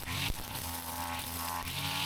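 Brush cutter's small engine running at high revs, its buzzing note swelling and easing about every second and a half, with a few sharp ticks.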